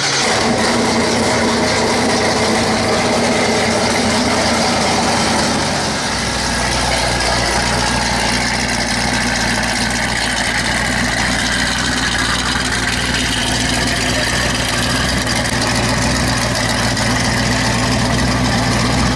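Car engines idling steadily, with a low rumble that gets stronger about six seconds in, over a busy noisy background.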